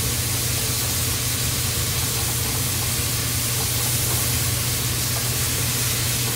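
Ground pork and vegetables sizzling in a nonstick wok while being stirred with a wooden spatula: a steady hiss over a constant low hum.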